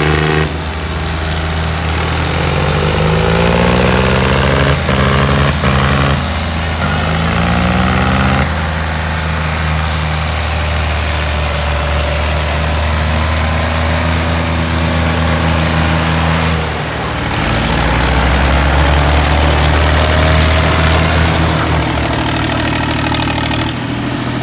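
Tractor diesel engine running loud, its pitch rising and falling several times as it is revved, with a few sharp clicks about five seconds in.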